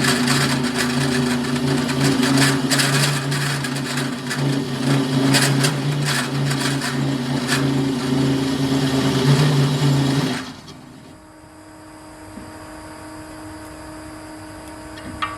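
Nova Viking drill press boring through steel with an annular cutter: a loud, steady machine whine mixed with scraping and crackling as the cutter cuts. About ten seconds in the cutting stops and only a much quieter steady hum is left.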